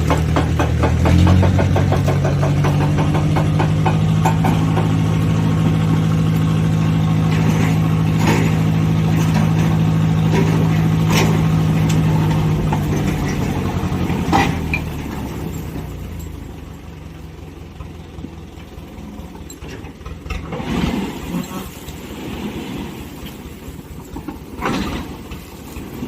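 Diesel engine idling steadily with a strong, even hum; about fourteen seconds in it falls away, leaving quieter noise broken by a few scattered knocks.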